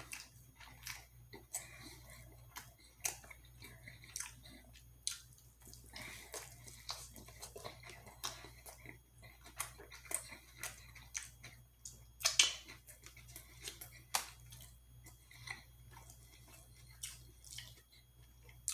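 A person chewing food with irregular wet mouth clicks and smacks, and one sharper click about twelve seconds in.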